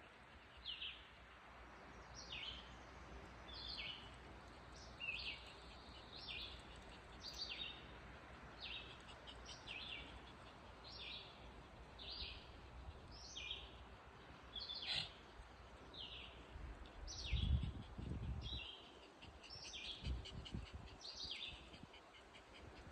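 A bird calling over and over, a short falling chirp about once a second, over a steady outdoor hiss. A low rumble about three-quarters of the way through is the loudest moment.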